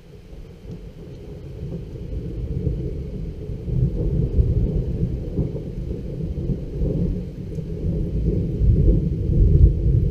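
Long rolling thunder from a nearby storm, building over the first few seconds into a deep, heavy rumble that keeps rolling. Faint rain underneath.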